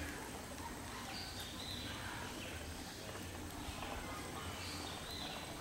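Faint bird chirps, a few short high calls scattered over a steady low outdoor background hum.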